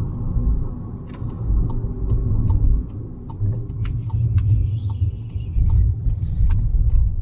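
Car engine and road rumble heard from inside the cabin as the car drives and turns around, rising and falling with the throttle, with light ticks about twice a second.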